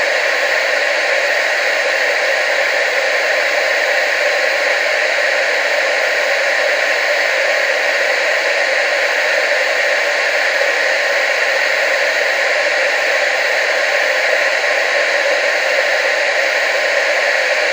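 Analogue TV static: a steady hiss with no breaks or changes, strongest in the middle and upper range and thin in the bass.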